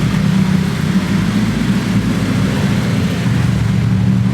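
Car engines running at low speed, a steady low drone.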